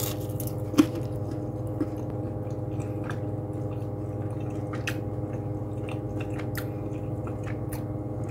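A person chewing a bite of a crisp-crumbed mac and cheese ball, with soft scattered chewing clicks and one sharper click about a second in. A steady low hum with a few steady tones runs underneath.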